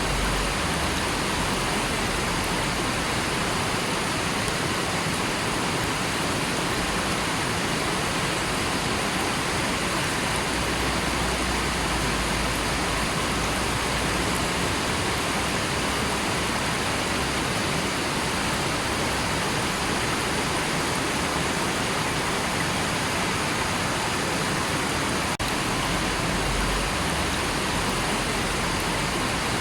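River water rushing steadily, a dense, even hiss of flowing water that hardly changes.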